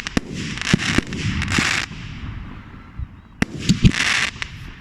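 Aerial firework shells bursting in quick succession, sharp bangs each followed by a hissing crackle. There is a short lull about two seconds in, then another cluster of bursts.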